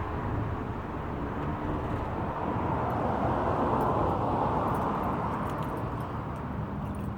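Catless exhaust of a 2016 Camaro's 2.0-litre turbocharged four-cylinder engine running steadily, swelling louder about halfway through and then easing back.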